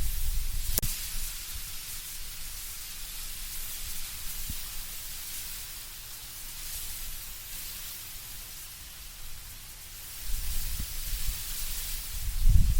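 Wind in autumn trees, with a steady high rustle of leaves. Low gusts rumble at the start and build again from about ten seconds in, and there is one sharp click about a second in.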